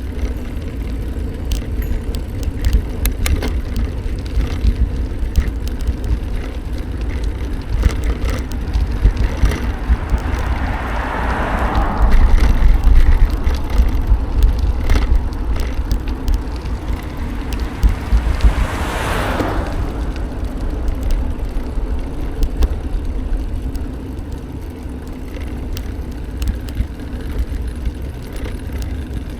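Riding noise from a bike on the road: wind rumbling on the microphone, scattered rattling clicks, and a vehicle going past about two-thirds of the way through.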